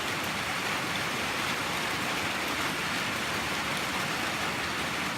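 Steady heavy rain falling, an even hiss of a downpour.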